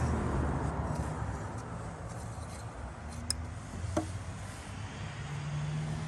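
A low, steady engine-like rumble, with two sharp clicks about three and four seconds in.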